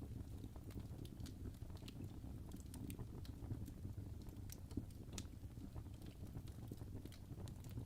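Wood fire burning in a fireplace: a steady low rumble of flames with irregular sharp crackles and pops from the burning logs, one louder pop about five seconds in.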